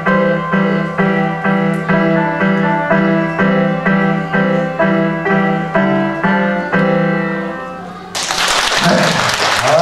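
Piano playing a steady run of notes, about two a second, that ends about eight seconds in, when applause suddenly breaks out.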